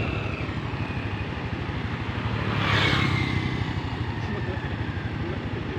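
Heavily loaded truck's engine labouring at low revs under strain on an uphill climb, a steady deep running note, with a swell of noise about three seconds in.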